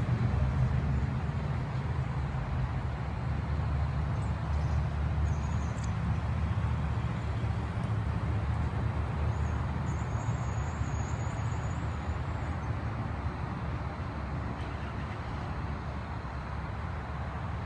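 Steady low engine rumble that slowly grows quieter, with no distinct events.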